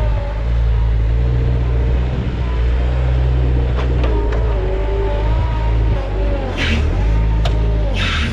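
Bobcat 753 skid steer's diesel engine running steadily, with a higher whine that wavers up and down in pitch. A few sharp clicks and two short hisses come near the end.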